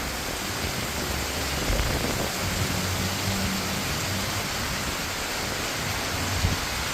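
Heavy rain pouring down steadily in strong wind, a constant even hiss.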